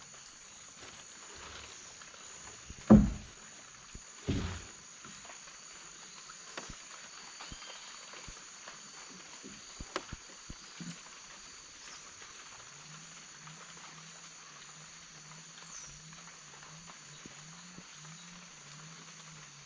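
Rainforest ambience: a steady high insect drone with a low, repeating croak-like call through the second half, likely frogs. Two loud knocks about three and four and a half seconds in, with scattered lighter clicks, from the boat or paddles.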